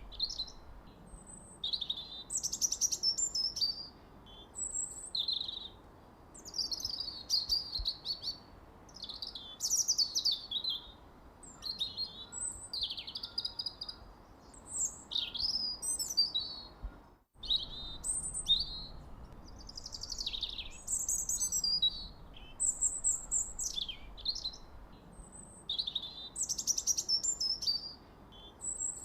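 Songbirds chirping: quick, high chirps and short trills in phrases of about a second, one after another with short pauses, over a faint background hiss. The sound cuts out for an instant a little after halfway, then the chirping resumes.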